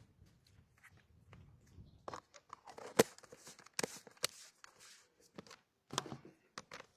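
A string of sharp clicks and knocks, irregularly spaced, loudest about three seconds in, over a faint low rumble at the start.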